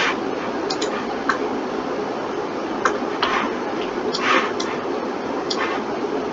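Scattered computer mouse clicks and keyboard keystrokes, about eight sharp ticks at uneven intervals, over a steady hum of computer fan noise.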